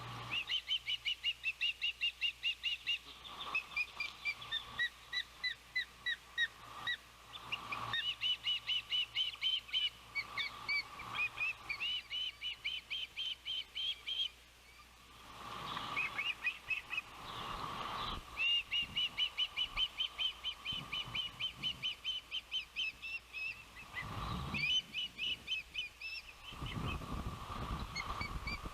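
Ospreys giving long runs of rapid, high-pitched chirping calls, several a second, pausing briefly about halfway through. Wind gusts buffet the microphone now and then.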